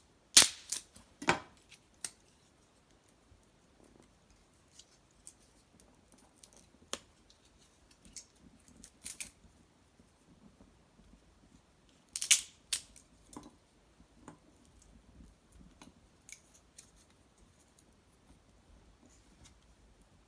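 Wood fire of cedar branches and bark crackling in a sunken hearth: irregular sharp pops and snaps, louder clusters near the start and about twelve seconds in.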